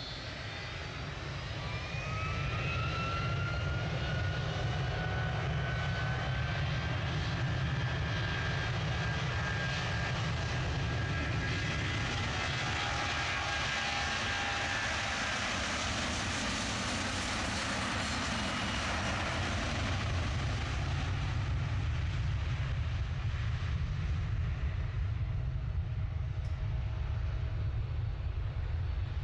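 Jet airliner engines: a whine rising in pitch early on, then a loud rushing jet noise that swells in the middle and fades near the end as the aircraft passes along the runway.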